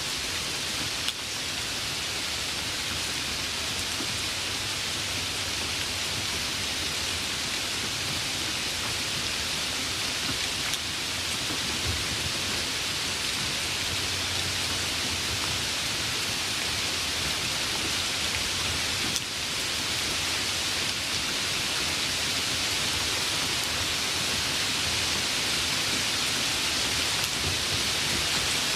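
Steady rain falling, an even hiss, with a soft sharp tick about a second in and another about two-thirds of the way through.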